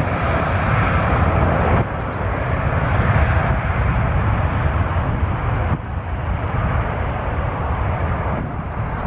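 Boeing 787 jet engines at takeoff power: a steady rush of engine noise over a heavy, choppy low rumble. The level drops suddenly about two seconds in and again near six seconds.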